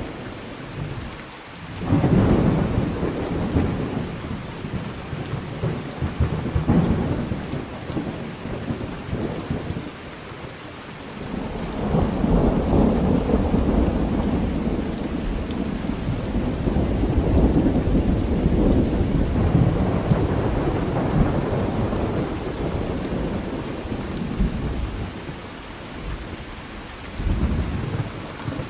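Thunderstorm: steady rain with rolling thunder. A sharp clap about two seconds in, then a long rumble building from about twelve seconds and fading out by about twenty-two seconds.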